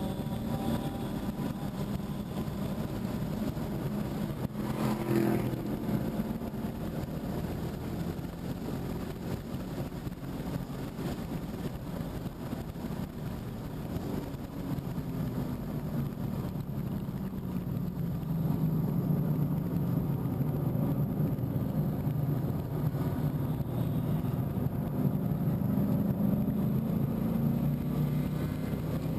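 2015 Mustang GT's 5.0-litre V8 engine running hard on track under load, with wind and road noise. The engine note falls and rises over several seconds and is louder in the second half.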